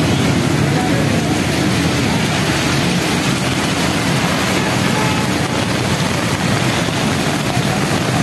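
Heavy rain pouring steadily, with traffic driving through water on a flooded road.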